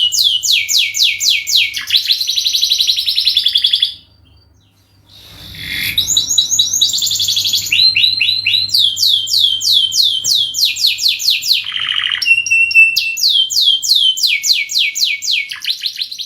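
Domestic canary singing a long song of fast trills, each a run of quickly repeated chirping notes, changing from one trill to the next. There is a pause of about a second roughly four seconds in, then the song starts again.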